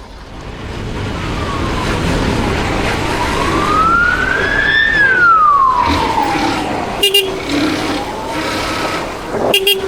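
Emergency vehicle siren wailing in traffic: one slow rise and fall in pitch, then rising again, over steady traffic noise. A short car horn honk sounds about seven seconds in, and more honks come near the end.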